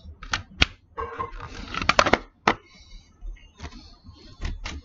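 Plastic building bricks being handled: a string of sharp clicks and a stretch of clattering and rustling as pieces are picked through and pressed together.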